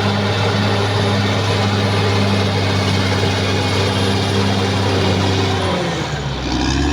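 Caterpillar D6R XL bulldozer's diesel engine running steadily at working revs; about six seconds in its pitch dips and then climbs back up.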